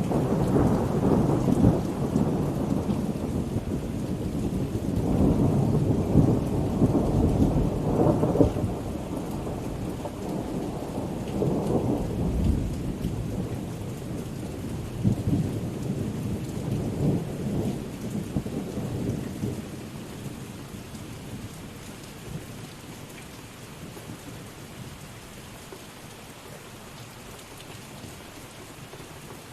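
Steady rain with rolling thunder: long low rumbles swell and ebb for the first two-thirds, then die away, leaving the even hiss of the rain.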